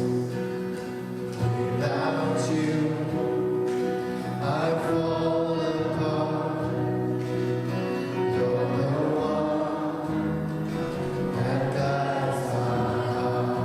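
Worship song sung by a group of voices in long held notes over instrumental accompaniment.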